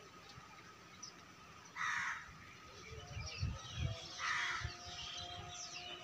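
A bird gives two harsh caws about two and a half seconds apart, over a faint steady hiss.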